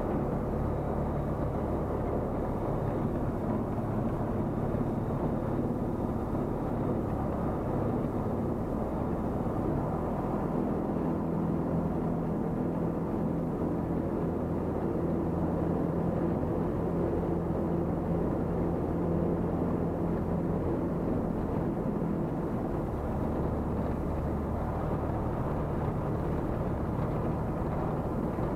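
Tecnam P96 Golf light aircraft's Rotax 912 piston engine and propeller running steadily at low power during taxi. Its pitch shifts slightly a little before halfway and again near the end.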